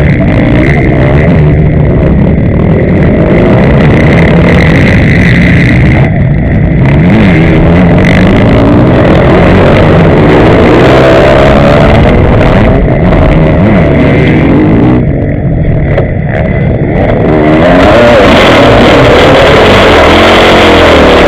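Motocross bike engine heard from an onboard camera, revving up and down continuously as the rider works the throttle around the track. About fifteen seconds in the throttle eases off for a couple of seconds, then opens fully again.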